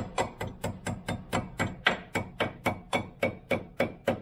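Hammer tapping in a steady rhythm, about three light strikes a second.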